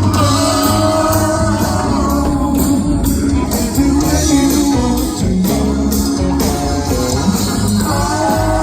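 Rock-and-roll band playing a passage without lyrics, led by guitar over a steady beat.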